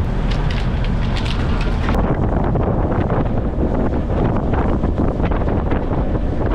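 Wind buffeting the microphone on a trawler under way, over the steady low rumble of the boat's engine and water. The sound changes abruptly about two seconds in.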